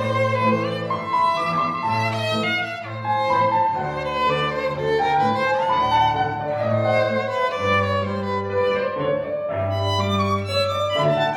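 Violin and cello playing classical chamber music, the violin carrying a melody over long held low cello notes.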